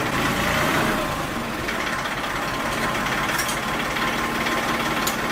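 A truck engine idling steadily, with a fine, even pulsing low down.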